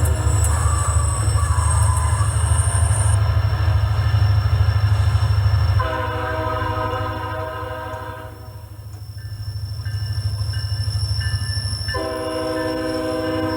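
Diesel locomotive sound: a steady low engine rumble with long horn blasts, one about six seconds in lasting about two seconds, and another starting near the end.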